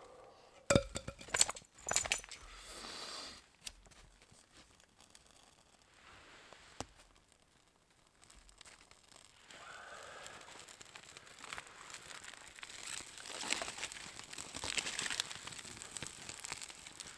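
Sleeping bag and tent fabric rustling and crinkling as someone moves about, building up from about ten seconds in. A few sharp knocks and bumps come near the start.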